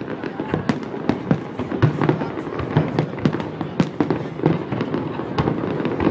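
Aerial fireworks shells bursting in a show, many sharp bangs following each other quickly at uneven spacing, several a second.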